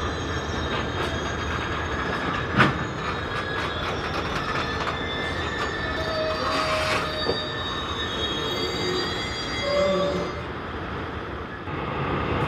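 Freight train wagons rolling along the track, the wheels squealing in thin high tones that come and go, with a sharp metallic clank about two and a half seconds in.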